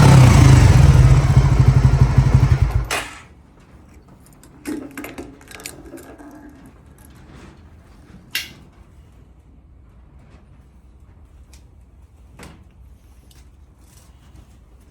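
Honda GB250 Clubman's single-cylinder four-stroke engine running, then shut off about three seconds in. After it stops, a few scattered clicks and knocks.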